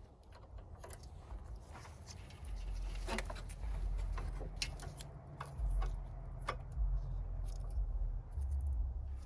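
Hand work on car parts: scattered light clicks and knocks over a low rumble that grows louder about two and a half seconds in.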